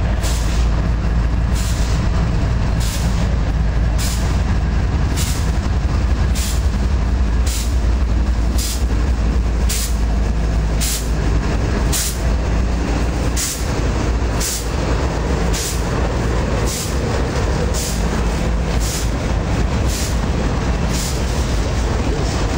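Railroad grade-crossing bell dinging steadily, about three strikes every two seconds, over the heavy, steady low rumble of a diesel-hauled freight train.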